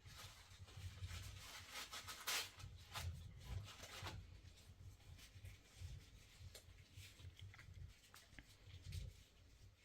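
Faint rustling and scraping, busiest in the first few seconds, with scattered soft clicks over a low background rumble.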